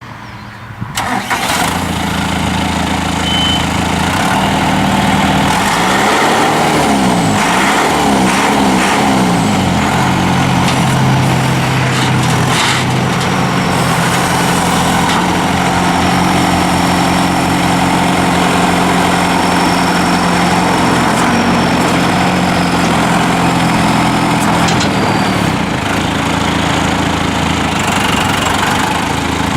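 2011 John Deere 5085M tractor's four-cylinder turbo diesel engine starting up, rising and falling in pitch for a few seconds, then running steadily at idle.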